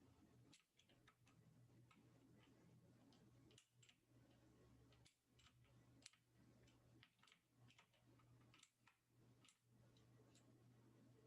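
Near silence: faint, irregular clicks, several a second, over a low steady hum.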